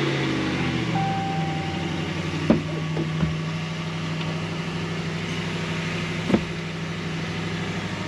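2013 Ram 1500 pickup's engine idling just after being started, its revs settling within the first second and then running steadily; the owner thinks a recently fixed exhaust leak has made it sound better. A short steady beep sounds about a second in, and two sharp clicks come partway through.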